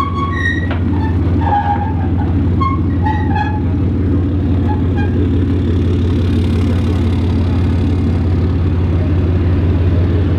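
Steady low drone of engine and road noise heard from inside a vehicle's cab while it is being driven.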